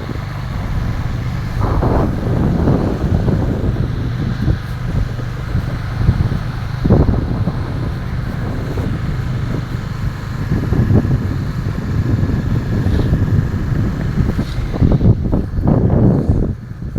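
Wind buffeting the microphone over a low, steady rumble, with a few louder gusts.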